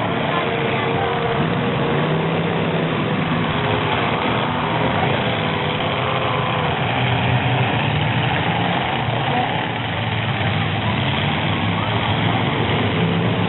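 Full-size demolition derby truck engines running and idling steadily, with a crowd's chatter underneath.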